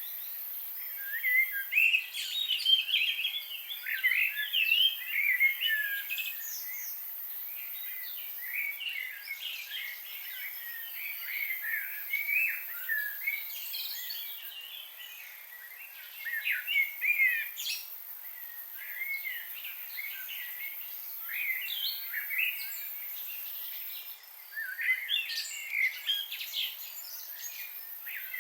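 Several small birds chirping and singing in a chorus of short, quick, high notes, busiest in the first few seconds and again near the end, over a steady faint hiss.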